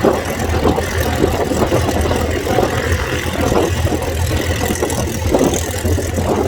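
North American Harvard trainer's Pratt & Whitney Wasp radial engine running steadily on departure, a low even drone.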